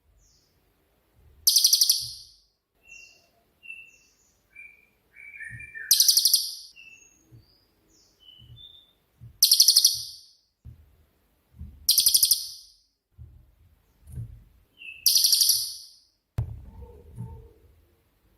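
Cililin songbird singing: about every three seconds a loud, rattling, buzzy burst of about a second (the 'tembakan' bursts prized in a masteran), with short thin chirps and whistles between them. Some low thumps run under it, the strongest near the end.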